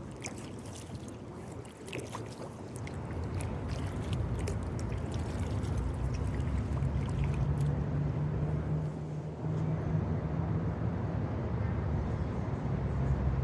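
Water trickling and dripping off a kayak paddle, with small splashes in the first few seconds, under a low rumble that builds over a few seconds and then holds steady.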